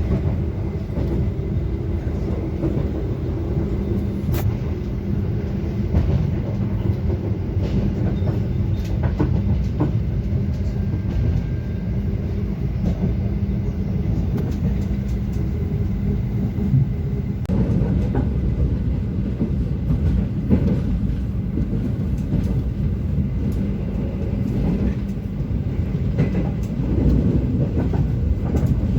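Passenger train coach rolling along the track, heard from inside: a steady low rumble of wheels on rail over a constant hum, with occasional faint clicks.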